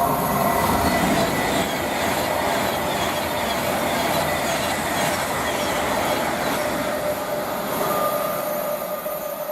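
Class 390 Pendolino electric train passing, a steady loud rush of wheel and rail noise with thin whining tones above it, fading just as it ends.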